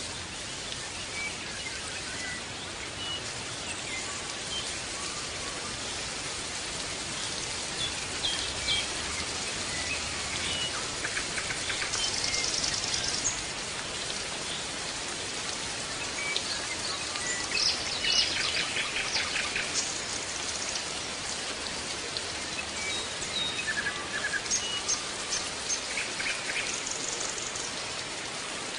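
Small birds chirping and giving short rapid trills on and off, over a steady hiss.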